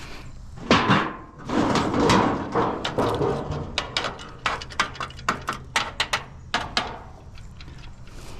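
Scrap metal being handled. There is a bang about a second in, then a scraping rattle, then a quick run of sharp clanks and knocks.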